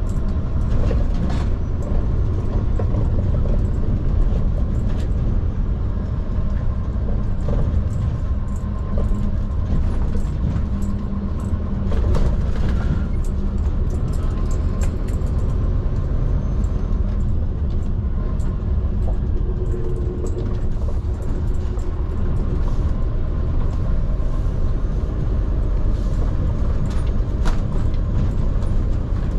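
Scania P360 XT skip lorry under way: its five-cylinder diesel engine and the road give a steady low rumble, with small rattles and knocks now and then.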